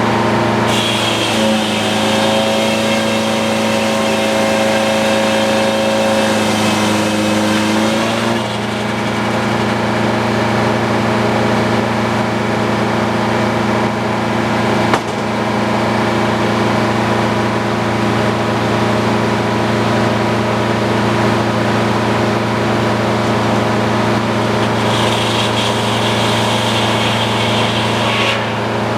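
Sawmill engine running steadily. A higher whine with extra tones comes in about a second in and lasts some seven seconds, then comes in again for a few seconds near the end. A single sharp click sounds about halfway through.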